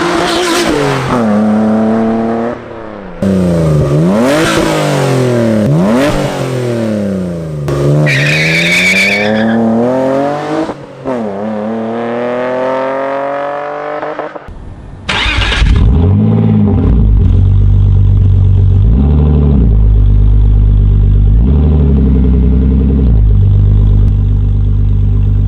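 Toyota MR2's engine revving hard through its new exhaust, the pitch climbing and dropping again and again as it pulls and shifts. After a brief break it settles to a steadier, deeper note with a few short rev blips.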